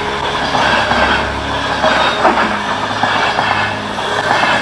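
Passenger train coaches passing close by: a steady rush of wheels on rails, with a few clicks of the wheels over the rail joints.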